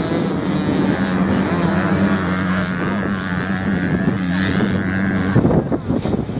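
Racing motorcycle engines running hard as bikes race along the sand, with one engine's pitch rising through the middle as it revs. The steady engine note drops away about five seconds in.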